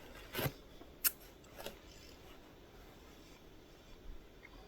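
Three brief handling noises, short sharp rustles or clicks, in the first two seconds, then quiet background.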